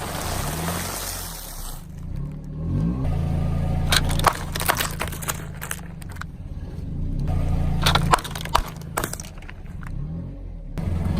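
Car engine running at low speed, rising and falling in pitch, as its tyres roll over and crush fruit. Clusters of crunching and cracking come about four seconds in and again around eight to nine seconds in.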